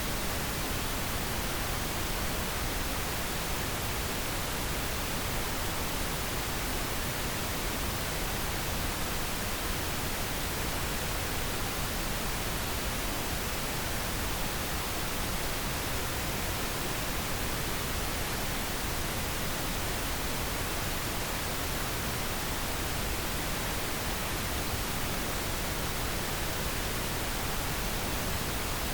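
Steady pink noise: an even hiss spread across all pitches, unchanging.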